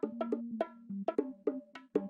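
Short comic music cue of quick struck notes on a pitched, wood-block-like percussion, about six notes a second.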